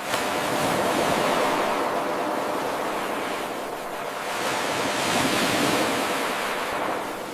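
Ocean waves surging and washing in a short looped recording, a continuous hiss of water. A wave comes in abruptly at the start, ebbs about halfway through, swells again and fades toward the end.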